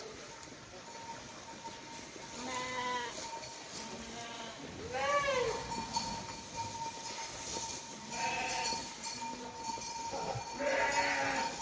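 Small livestock bleating: four separate bleats a few seconds apart, each rising and falling in pitch, over a faint steady high tone.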